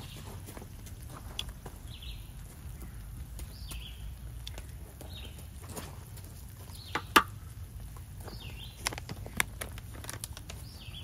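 A bird chirping again and again, a short high call every second and a half or two, over a low steady outdoor rumble. About seven seconds in there is one sharp metallic clack, with two lighter knocks soon after, as metal tongs are set down on the table.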